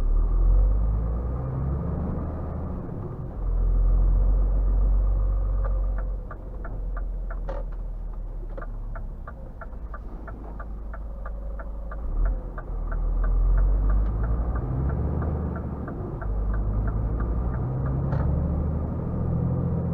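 Scania R450 truck's 13-litre straight-six diesel running with a low rumble that swells and eases as it drives. From about six seconds in until near the end, a steady ticking of about two to three clicks a second runs over it, typical of the cab's turn indicator.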